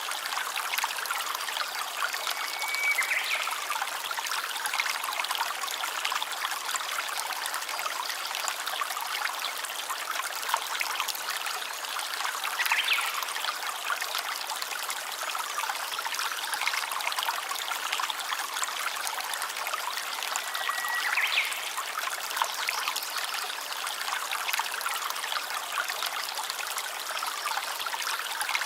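Water running and trickling in a small stream, steady and unbroken, with a brief high note three times.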